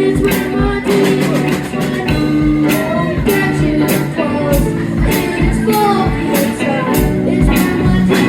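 Live rock band playing, with a steady drum beat, guitar and a singing voice.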